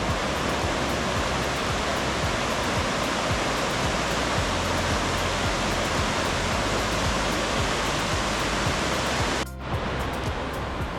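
Steady rush of a waterfall in spate, swollen by heavy storm rain. It cuts out abruptly for a moment about nine and a half seconds in, then resumes.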